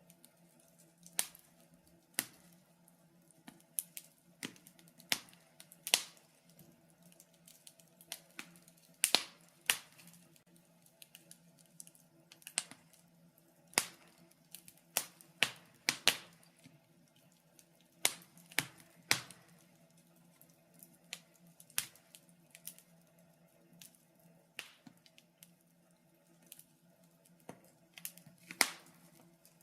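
Wood fire crackling in a fireplace: irregular sharp pops and snaps, some loud and some faint, with short gaps between them, over a faint steady low hum.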